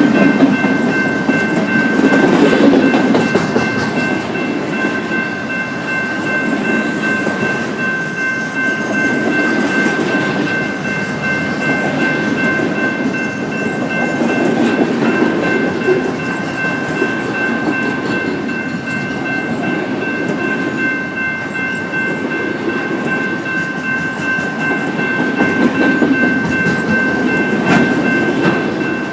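A train rolling past, its cars' wheels clacking over the rail joints in swelling, rhythmic waves, with a steady high ringing tone throughout.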